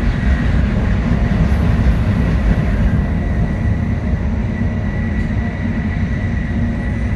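Shinkansen bullet train running at speed: a loud, steady rumble with a faint, even high whine over it.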